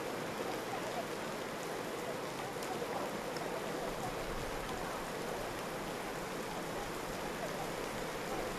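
Steady rush of typhoon wind and driving rain, an even noise with no single event standing out.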